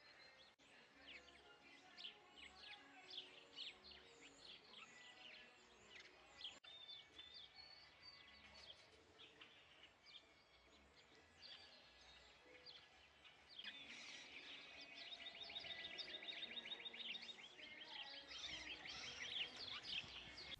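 Several small backyard birds chirping and calling faintly, many short high chirps overlapping. About two-thirds of the way through, one bird gives a fast trill lasting a few seconds, followed by a flurry of chirps near the end.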